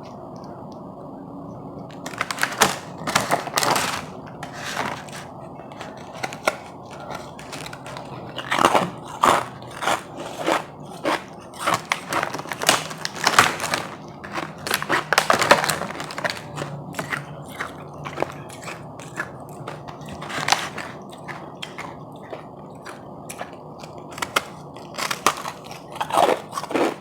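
Close-miked biting and chewing of powdery ice, crisp crunches coming in irregular clusters from about two seconds in.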